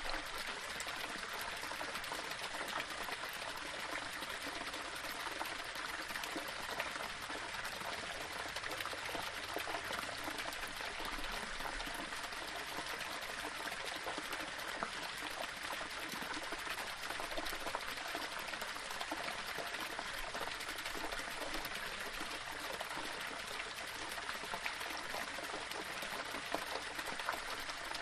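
Small waterfall splashing and trickling over rocks, a steady run of falling water with small splashes throughout.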